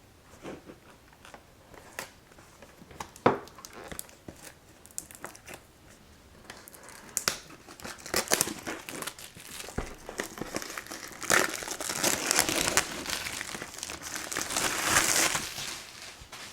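Graphics-card retail box being opened by hand: its packaging crinkling and tearing, with a few scattered knocks and clicks at first, growing denser and louder in the second half.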